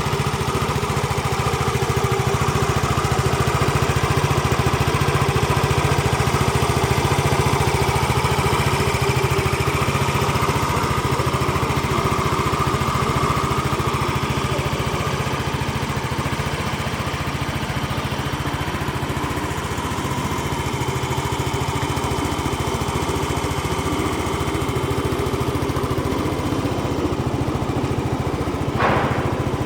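Yamaha XC115 Delight scooter's small single-cylinder four-stroke engine idling steadily. A brief sharp sound comes about a second before the end.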